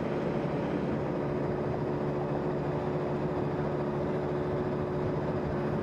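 A vehicle's engine and road noise as it is driven at steady speed: a constant hum with a steady drone.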